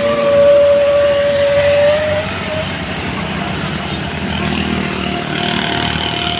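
A motor vehicle's engine running hard with a steady high whine. About two seconds in the whine gets quieter and steps slightly higher in pitch.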